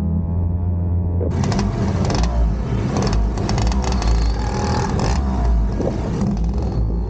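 A vehicle engine running with a steady low hum, joined about a second in by a loud rushing noise with crackles that lasts almost to the end.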